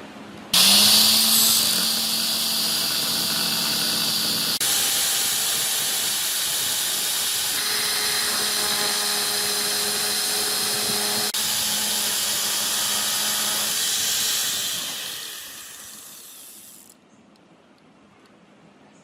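Handheld angle grinder switched on and running at speed: a steady motor whine over a loud high hiss. Near the end it winds down and fades out.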